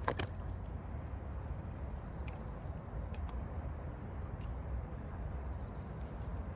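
Steady low rumble of outdoor background noise, with a sharp click right at the start and a few faint ticks later.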